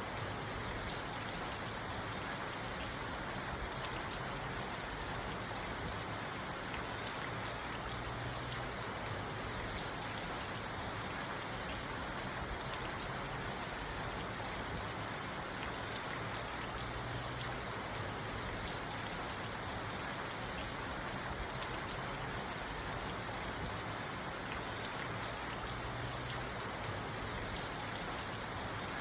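Steady rain falling on a parked car's roof and windows, heard from inside the car.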